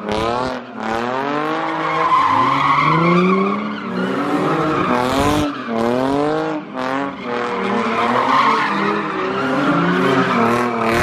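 Car engine revving hard, its pitch rising and falling over and over, while the tyres spin and squeal: a car doing a burnout.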